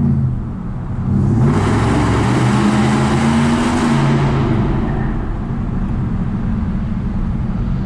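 V8 exhaust of a 2013 Roush F-150 with its catalytic converters cut out, heard through open windows while driving. The engine note climbs about a second in, and a loud rushing noise swells over it for about three seconds as the truck runs underneath a structure, then the steady exhaust drone carries on.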